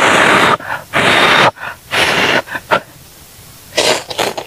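A woman blowing three hard, hissing breaths out through pursed lips about a second apart, then a shorter one near the end. She is huffing against the burn of very spicy food in her mouth.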